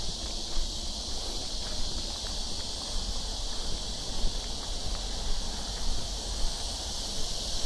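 Cicadas singing in a steady, continuous high-pitched chorus, with a low rumble of wind on the microphone underneath.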